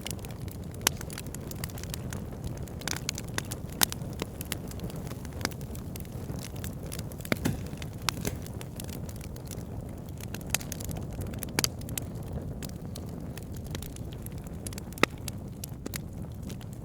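Burning wood logs crackling, with sharp irregular pops and snaps over a steady low rumble of the flames; a few pops stand out louder, near the start, about four seconds in and near the end.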